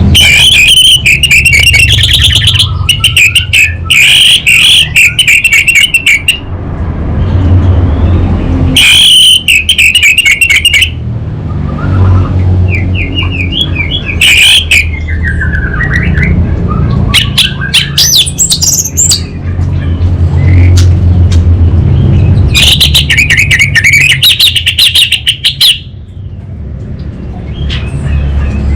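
Orange-headed thrush singing in repeated bursts of rapid, crackling chatter, the 'kabel konslet' (short-circuit) style of song, broken by short pauses. A steady low hum runs underneath.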